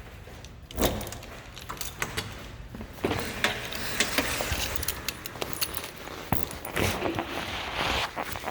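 Rustling and light jangling from things being handled, with many small clicks and a knock about a second in.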